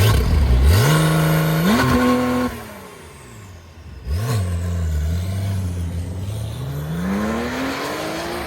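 A car engine revving and accelerating hard, its pitch climbing over the first two seconds. About four seconds in there is a quick throttle blip, then it runs low and rises again near the end.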